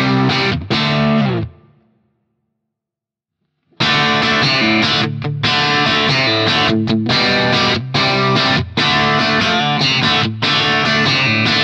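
Overdriven electric guitar through a Crazy Tube Circuits Stardust V3 pedal into a Marshall JTM45 valve amp. A chord rings out and dies away about a second and a half in, there are about two seconds of silence, then chopped, rhythmic chords resume.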